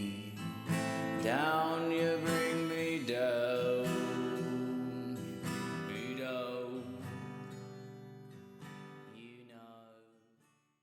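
Acoustic guitar song closing out, the guitar strummed as the music fades away to silence near the end.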